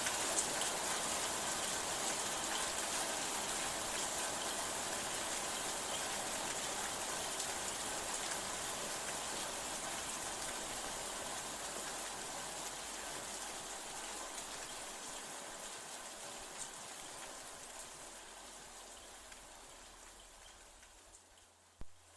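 Steady rain falling, an even hiss of drops that slowly fades away over the second half, dropping almost to silence near the end, where a single sharp click comes as the recording loops.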